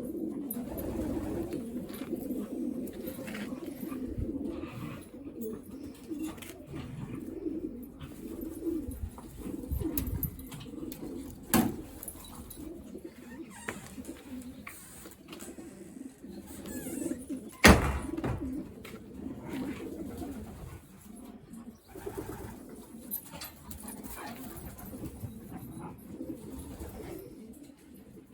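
Racing pigeons cooing continuously, a low murmuring chorus of several birds. Two sharp knocks cut through it, about halfway through and again, louder, about two-thirds of the way in.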